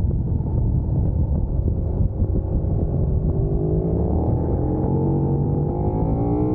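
Large sport motorcycle engine accelerating hard under heavy wind rush on the microphone. Its pitch climbs steadily through the second half as it pulls through a gear.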